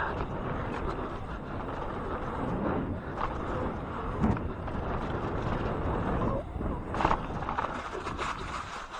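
Wind rushing over the microphone and knobby mountain-bike tyres rolling on a dirt trail during a downhill run over jumps. A few knocks from landings and bike rattle come through, the clearest about four and seven seconds in.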